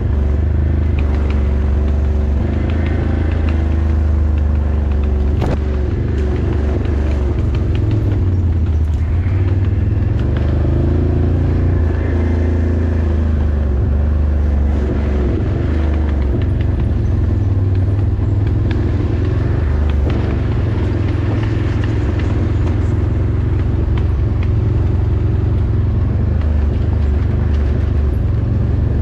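Off-road vehicle engine running steadily under way, its pitch rising and falling a little with the throttle.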